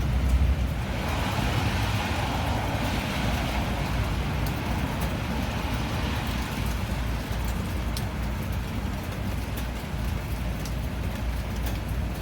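Rain falling as a vehicle passes on the wet road: a hiss of tyres swells about a second in and fades over the next several seconds, over a steady low rumble and scattered drop ticks.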